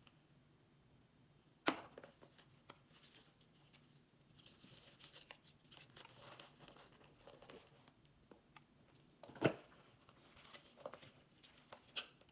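Faint rustling and crinkling of packaging being handled during unboxing, with scattered small clicks and two sharper knocks, one early and one near the end.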